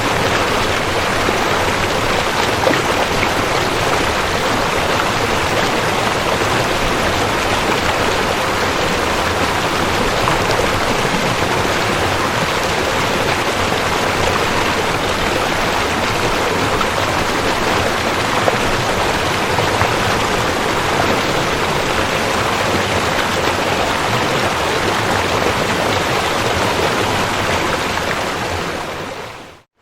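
Waterfall: a steady, even rush of falling water. It fades out quickly to silence near the end.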